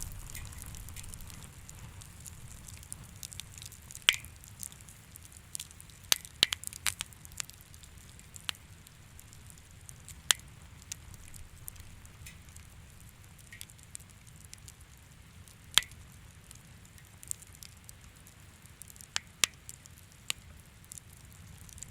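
Wood fire crackling: scattered sharp pops and snaps at irregular intervals, some in quick clusters, over a low steady rumble.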